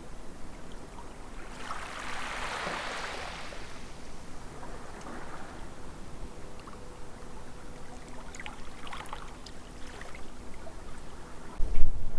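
Harbour water lapping and trickling, with a louder wash of water about two seconds in and a faint steady hum underneath. A few small ticks come later, and a strong low rumble starts near the end.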